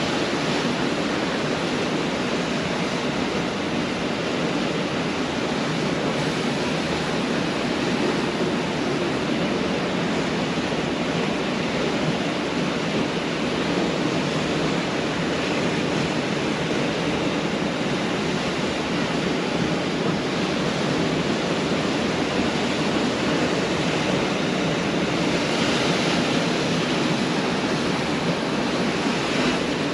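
Pacific Ocean surf washing onto a beach: a steady, dense rush of breaking waves, swelling slightly near the end.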